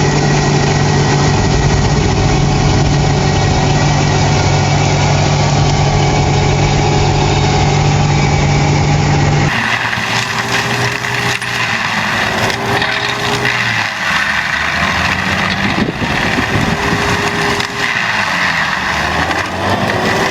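Tractor engine running steadily. About halfway through, the sound cuts to another engine with a tone that rises and falls several times.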